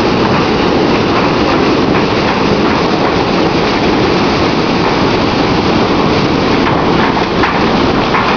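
Windstorm wind blowing hard and steadily with rain, a loud even rush without letup; a few faint knocks about seven seconds in.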